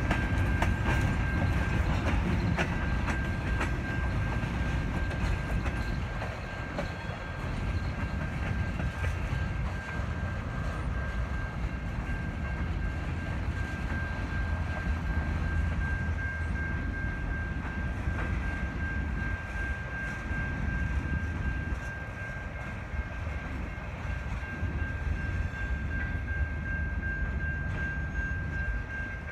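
Empty freight cars, covered hoppers and tank cars, rolling slowly past: a low rumble with wheels clacking over the rail joints, and a steady high tone sounding throughout.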